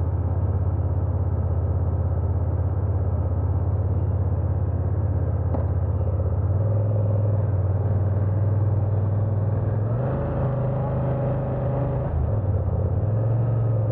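BMW F900R's parallel-twin motorcycle engine running steadily. Its pitch steps up about six and a half seconds in and shifts again near the end.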